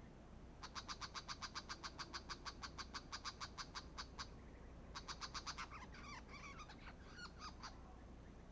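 Brown shrike chattering: a fast, even run of harsh repeated notes, about eight or nine a second, lasting some three and a half seconds. After a short pause a second run starts and breaks into varied scratchy, warbling notes.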